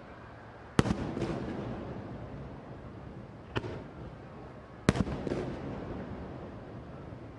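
Aerial fireworks shells bursting overhead. There are two loud booms about four seconds apart, each followed by a few quicker cracks and a rumbling echo that fades, with a fainter bang between them.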